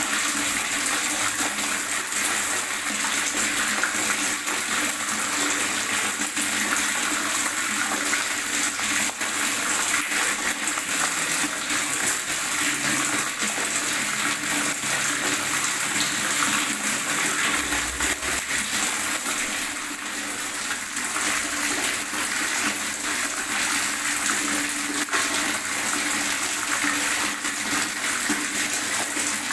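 Water gurgling steadily: an even, unbroken rush dotted with many small splashes.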